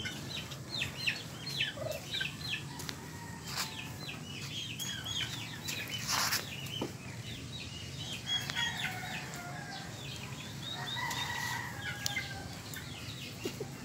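Birds chirping over and over, with a few longer held calls about eleven seconds in, and a brief rustle about six seconds in.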